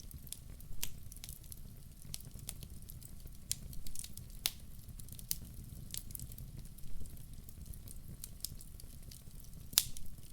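Fire in a fireplace crackling, with irregular sharp pops over a steady low rumble of the flames; the loudest pop comes near the end.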